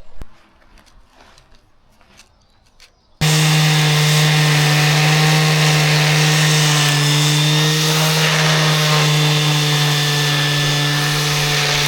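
An electric power sanding tool switches on abruptly about three seconds in and runs at a steady, unchanging pitch. It is sanding down a fresh weld on the steel tiller stock ahead of repainting.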